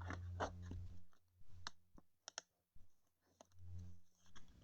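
Faint, scattered sharp clicks and light rustling of trading cards being handled and sorted by hand.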